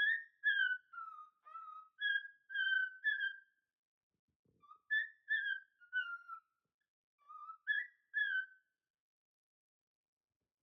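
A string of short whistled notes, many sliding down in pitch, in two phrases with a pause of about a second between them.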